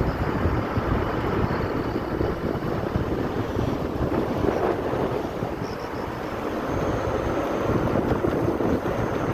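Car driving at speed: a steady rumble of road, engine and wind noise.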